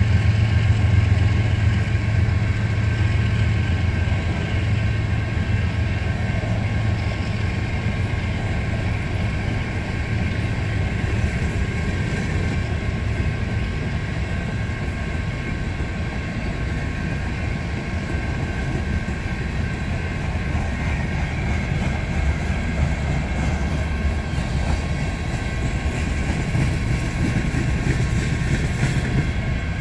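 Train of empty coal hopper cars rolling past with a steady rumble and clatter of wheels on rail, a little louder in the first several seconds.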